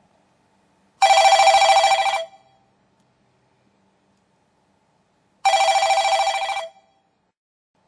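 Telephone ringing twice. Each ring lasts just over a second, and the rings come about four and a half seconds apart.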